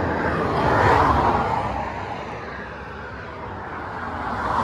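Vehicles passing on a road: a whoosh of tyres and air that swells about a second in, fades, and builds again near the end.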